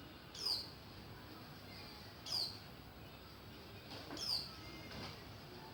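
A bird calling: a short, high chirp that slides downward, repeated three times at an even pace of about one every two seconds, over a faint steady hiss.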